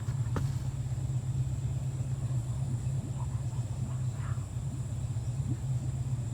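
Tour boat's engine running at a low steady idle, a constant low hum. Over it a thin, steady high drone of insects from the mangrove, with a few faint chirps.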